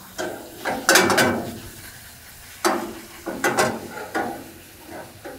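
Raw meatballs placed one after another into hot oil in a stainless-steel wok, each one hitting with a short burst of sizzling, about ten in all and unevenly spaced.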